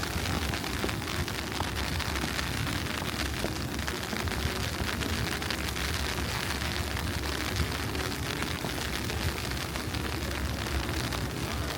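Steady city-street noise in falling snow: a continuous hiss over a low rumble, speckled with many small ticks, with no single event standing out.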